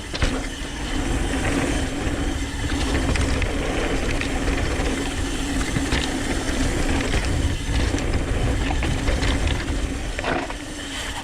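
Downhill mountain bike coasting down a dirt trail: the Industry Nine rear hub's freewheel buzzes as one steady tone over loud rumble from the tyres and the wind, with scattered knocks and rattles from the bike over bumps.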